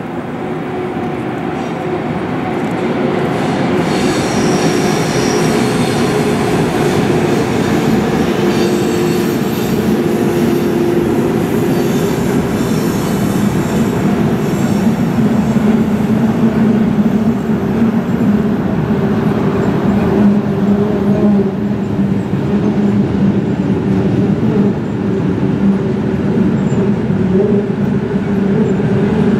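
A train passing on the tracks below: a steady rumble of wheels on rails that builds over the first few seconds, with a steady low hum and a faint high wheel squeal a few seconds in.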